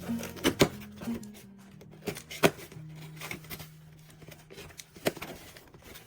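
Quiet background music with several sharp clicks and taps from a parcel being handled and opened. The loudest click comes about two and a half seconds in.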